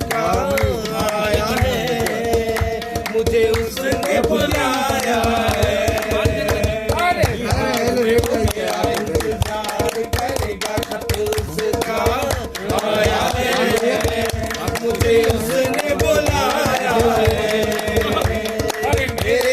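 Live Indian film-song music: a steady drum beat under a wavering melody line and held sustained notes, with no words sung.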